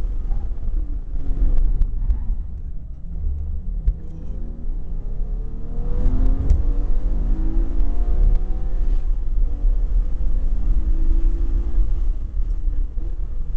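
Porsche GT3 RS flat-six heard from inside the cabin, faint under a heavy low rumble. About six seconds in, the engine climbs in pitch as the car accelerates, then holds a steady note.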